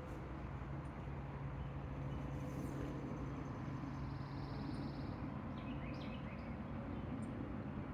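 Quiet outdoor ambience with a low steady hum, and a few short bird chirps about six seconds in.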